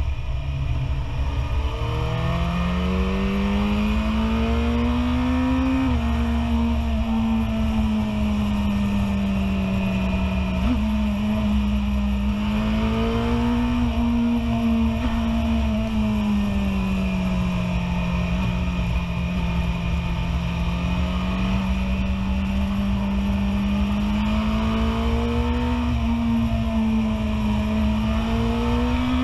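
BMW S1000RR inline-four sportbike engine pulling in third gear on a racetrack. Its note rises and falls several times as the throttle is opened and rolled off, over a steady rush of wind noise on the microphone.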